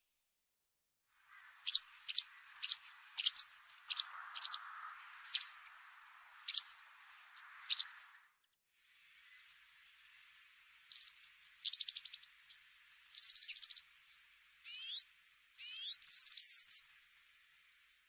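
Small bird calling: a series of about ten sharp, high chirps spaced roughly half a second apart. After a short break, faster trilled calls and chirps follow.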